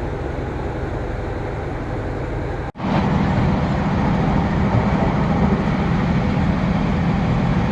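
Diesel passenger train running, a steady noise of engine and wheels on track. About three seconds in it cuts off abruptly and resumes louder, with a stronger low engine drone.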